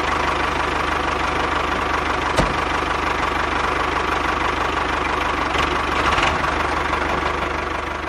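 Tractor engine running steadily at idle with a fast, even low chugging, starting and stopping abruptly. A single short click about two and a half seconds in.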